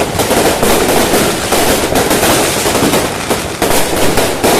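Fireworks and firecrackers going off in rapid, overlapping bangs and crackling, dense and continuous.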